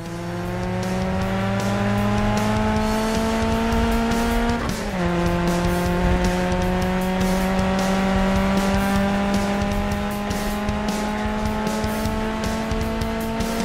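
Sports car engine sound effect accelerating: a steady engine note climbs slowly, drops once about five seconds in as it shifts up a gear, then climbs again. Background music plays underneath.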